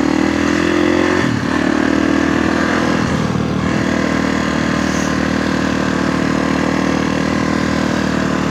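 Kawasaki KX450F dirt bike's single-cylinder four-stroke engine under way, heard from a mic inside the rider's helmet. The note climbs and breaks about a second in and again about three seconds in, then holds a steady pitch.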